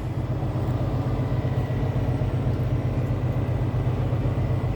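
Steady low rumble of an idling engine, even throughout, with a faint high whine on top.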